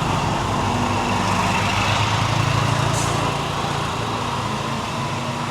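Street traffic, with motor scooter engines running steadily close by.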